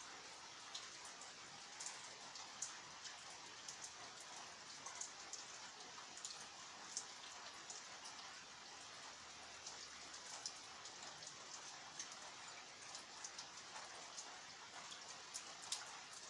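Steady light rain hiss with scattered drops ticking irregularly on a surface.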